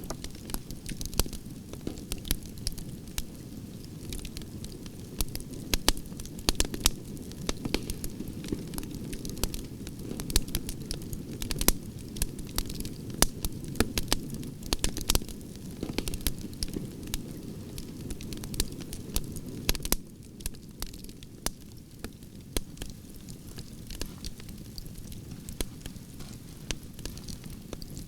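Wood fire of burning branches crackling, with frequent sharp irregular pops and snaps over a low steady rumble of the flames. The rumble drops a little about twenty seconds in.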